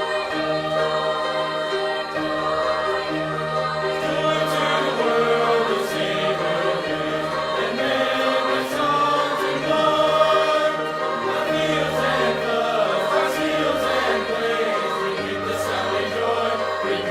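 High school choir singing in harmony, with steady low accompaniment notes underneath.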